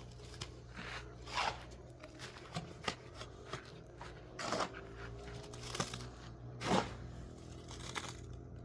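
Irregular scraping and rustling knocks of something being handled, a few louder than the rest, over a steady low hum.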